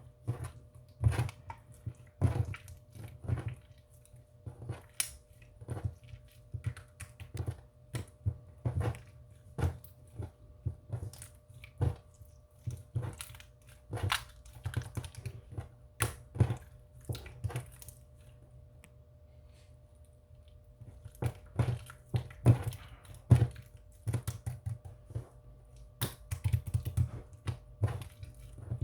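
Irregular clicks, taps and soft knocks from small objects being handled, in uneven clusters with a pause of a few seconds around two-thirds of the way through, over a faint steady hum.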